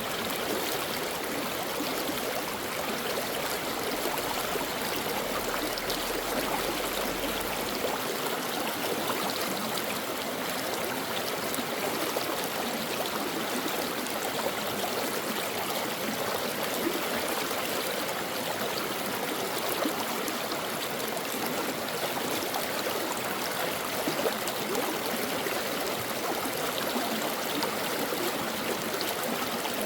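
A stream running steadily over rocks, a continuous, even rush of flowing water.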